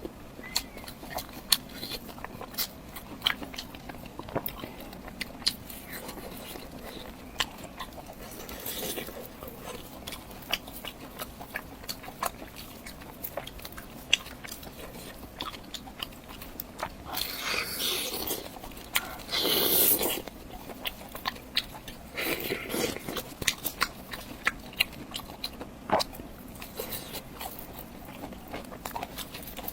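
Close-miked chewing and biting of a person eating, with many small wet mouth clicks. Louder noisy stretches come three times, around the middle and just after.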